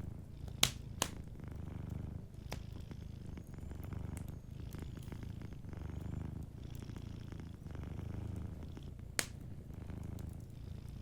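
Domestic cat purring, a low rumble that swells and eases about every two seconds, with a few sharp pops from a crackling wood fire, the loudest about half a second in and again near nine seconds.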